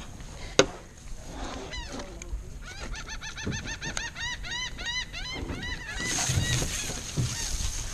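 A bird calling in a quick run of short notes, each rising and falling, about three or four a second, starting a couple of seconds in and stopping near the end. A sharp knock sounds just after the start, and a short rush of noise comes near the end.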